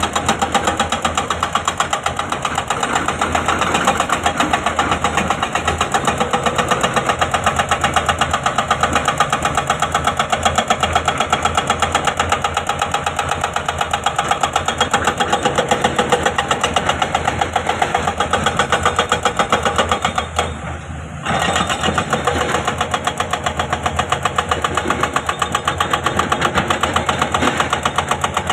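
Excavator's diesel engine running steadily with a fast, even pulse. It drops away briefly for about a second about two-thirds of the way through, then picks up again.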